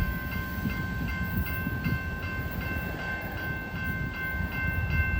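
Freight train rumbling past a railroad grade crossing while the crossing bell rings steadily, about three to four strikes a second.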